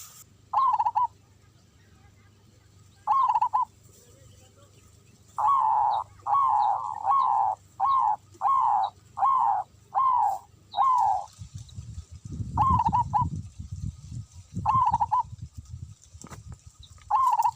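A bird calls loudly and repeatedly. Each call is a short, harsh note that falls in pitch: two single calls, then a quick run of about eight, then a few more spaced apart. Wind rumbles on the microphone in the second half.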